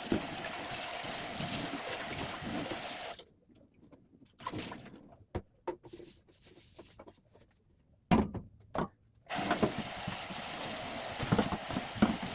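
Tap water running into a sink, shut off about three seconds in and turned back on near the end. In between and under the later run come hard knocks and clatter, as of items being set down or handled in the sink.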